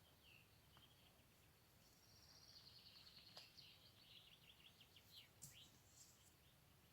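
Faint birdsong: a few short chirps, then a rapid trill of repeated, slightly falling notes from about two seconds in.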